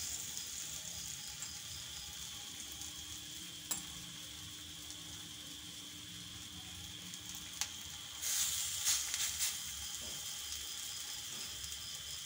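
Gram-dal tikkis frying in mustard oil on a flat iron griddle (tawa), sizzling steadily, with a louder flare of sizzling about eight seconds in.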